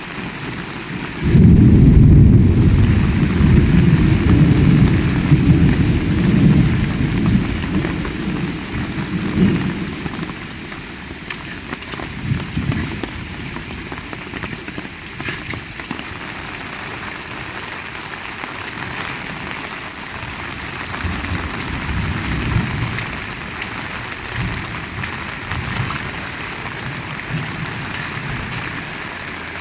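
Heavy rain pouring steadily, with a loud clap of thunder about a second in that rumbles on and fades over some ten seconds, and weaker rumbles of thunder later.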